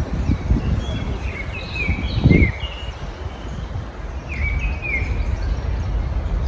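Small birds chirping in two short bursts of quick downward-slurred notes, over a steady low rumble of background noise that surges briefly about two seconds in.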